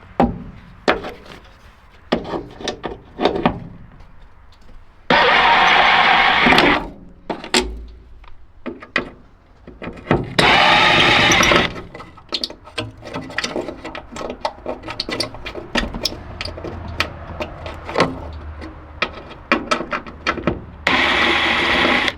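Hand work on a truck door's weather stripping: a string of clicks, taps and knocks, broken three times by a power tool running in short bursts of a second or so, about five seconds in, about ten seconds in and near the end.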